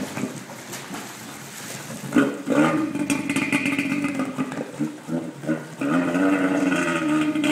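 Kawasaki X-2 jet ski's two-stroke engine running at low speed, its note uneven at first and stepping up louder and steadier about six seconds in.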